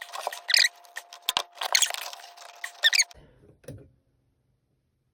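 Squeaking and sharp clicks from the furnace's exhaust parts being worked and forced into place: several high, wavering squeaks in the first three seconds, then it goes quiet.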